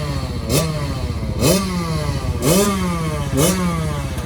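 KTM 65 dirt bike's small two-stroke single-cylinder engine being blipped during warm-up, about once a second: each rev jumps up sharply and falls back toward idle.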